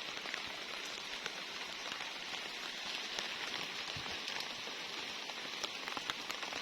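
Steady rain falling on the garden, a continuous patter with scattered distinct drop ticks.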